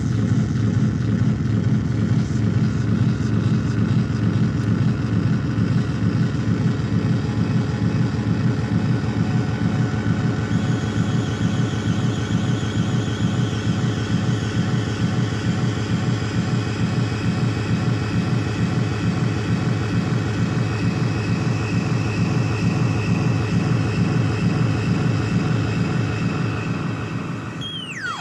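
Analog synthesizer drone noise run through echo and delay: a dense low drone with a fast, even flutter. Thin steady high tones come in about a third of the way through, and the pitch sweeps down near the end.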